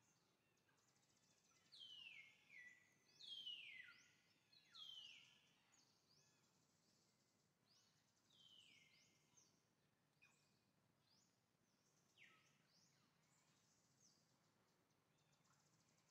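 Birds calling, faintly: a series of high whistled calls that each slide down in pitch. They come in a quick run in the first few seconds, then more sparsely, over faint outdoor background noise.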